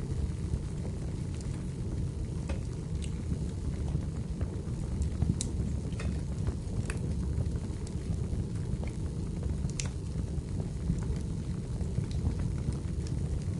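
Wood fire burning in a fireplace: a steady low rumble with scattered sharp crackles and pops at irregular moments.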